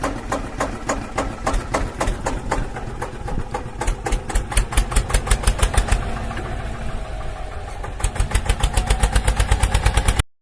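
Miniature model engine of a DIY mini diesel-engine water pump running with an even, rapid chugging, about ten beats a second near the end; it cuts off abruptly at the very end.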